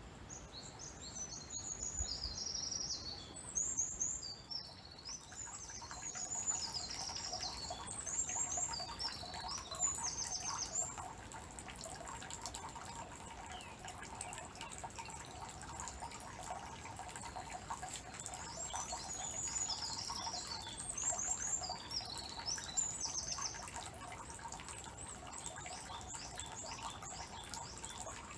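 Small songbirds singing quick, high trilled phrases in two bouts, over water trickling and dripping into the stone basin of a Shinto shrine's hand-washing fountain (temizuya).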